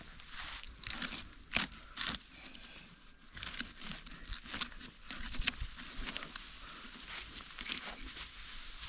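Irregular rustling and crackling with a few sharper crackles, like something dry being crumpled or trodden on.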